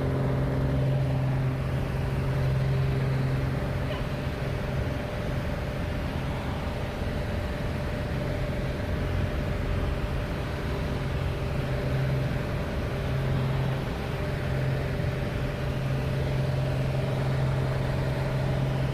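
Helicopter in flight: a steady drone of engine and rotor, a constant low hum with a few fainter steady tones above it.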